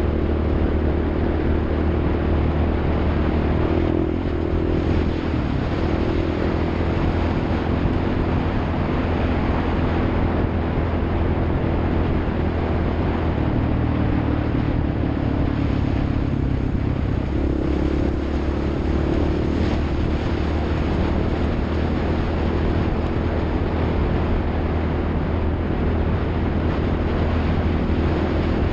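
A motor vehicle's engine running steadily under way over continuous rolling noise, its pitch shifting a little now and then.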